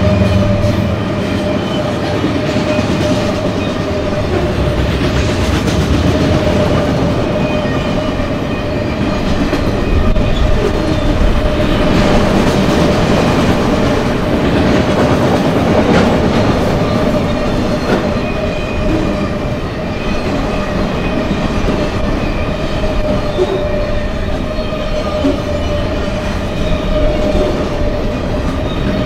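Enclosed multi-level autorack freight cars rolling past at close range: a steady rumble of steel wheels on rail with occasional clacks over the joints, and a steady ringing tone running through it. A low locomotive rumble fades out in the first second.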